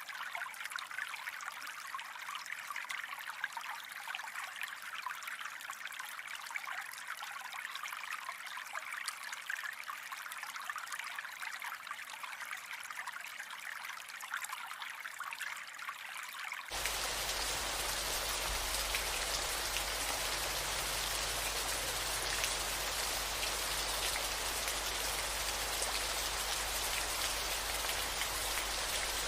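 Rain falling, heard as a dense hiss of many small drops. About 17 seconds in it changes abruptly to a louder, fuller, steady rain sound with more low rumble.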